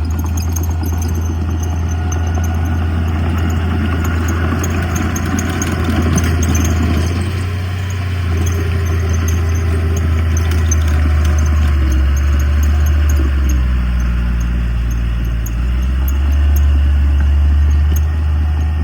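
Diesel engine of heavy earthmoving machinery running with a deep steady drone, swelling a little about six seconds in and again near the end.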